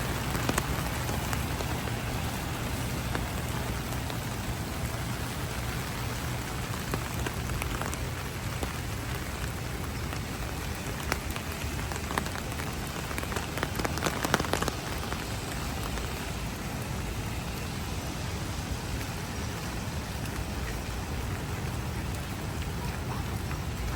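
Heavy rain falling steadily, a dense even hiss with a few brief louder moments about halfway through.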